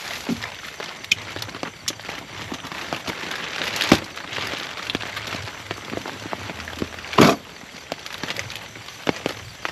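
Heavy rain falling steadily, with many individual drop hits and two louder sharp knocks, about four seconds in and about seven seconds in.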